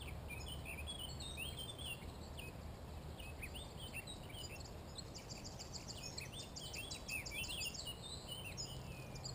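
A chorus of several songbirds singing at once at the forest edge, many short chirps and whistled notes with fast repeated trills about five to seven seconds in, over a faint low hum.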